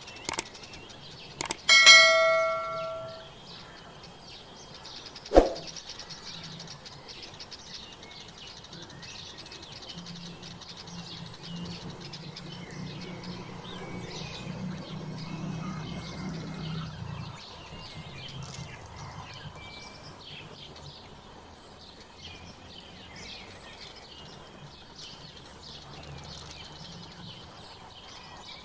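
Bird-feeding ambience with faint small-bird chirps throughout. About two seconds in, a metallic bell-like ring, struck once, dies away over a second or so, with a few sharp clicks around it; a low rumble comes up for several seconds in the middle.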